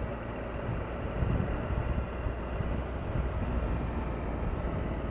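Triumph Tiger 1200's three-cylinder engine running steadily while riding, with wind noise over the microphone.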